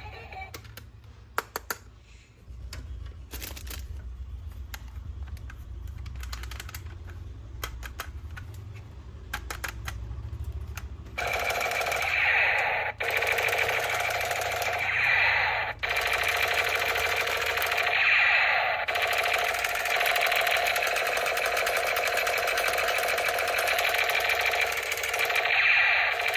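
Scattered clicks of plastic toy parts being handled, then about eleven seconds in a battery-powered toy gun's electronic firing sound starts: a loud, fast rattling buzz with steady electronic tones, cutting out briefly twice.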